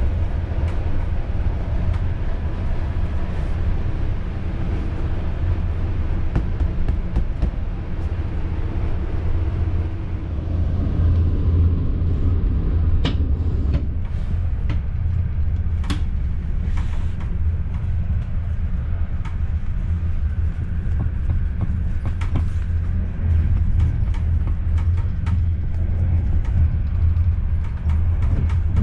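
Passenger train running at speed, heard from inside the coach: a steady low rumble of wheels on track, with scattered short clicks and knocks.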